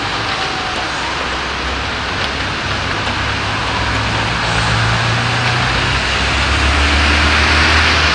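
Steady hiss of heavy rain on the street, with a motor vehicle's engine hum building up about halfway through and growing louder near the end.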